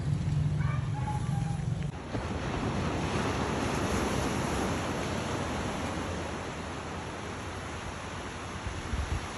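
A low steady engine hum that cuts off about two seconds in, followed by a steady rush of surf and wind.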